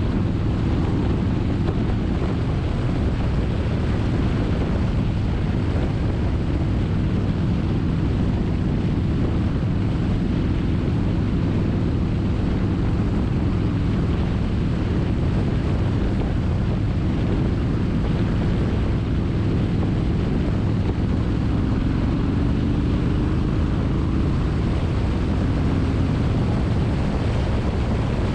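Motorcycle engine running at a steady cruise with a low rumble, and wind rushing over the microphone. Late on, the engine note climbs slightly.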